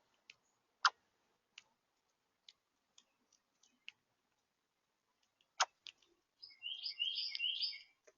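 Birds at a smart-camera bird feeder: sharp irregular clicks and taps, the loudest a little under a second in and again past the middle, then a quick run of high chirping notes near the end.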